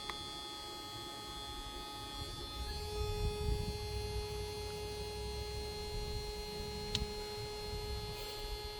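Small battery-powered live well pump motor running with a steady electric hum. About three seconds in a new steady tone joins and a low rumble rises underneath, and there is a single sharp click near seven seconds in.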